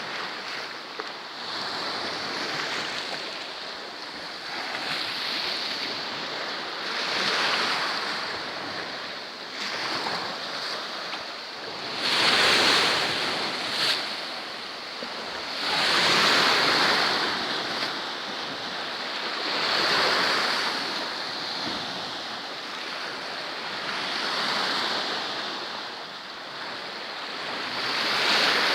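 Sea waves washing onto the shore, each surge swelling and falling away about every four seconds over a steady wash of water.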